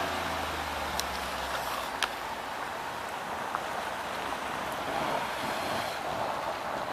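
Street traffic noise: a low vehicle engine hum for the first couple of seconds over steady road rumble, with a couple of light clicks.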